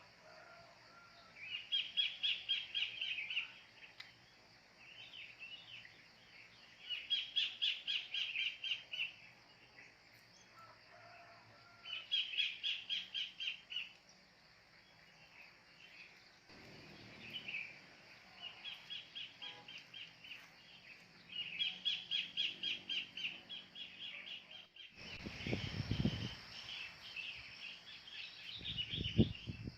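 A kingfisher calling in repeated series of rapid notes, each series lasting a second or two and coming every few seconds, over a steady high hiss. Low rumbles come twice near the end.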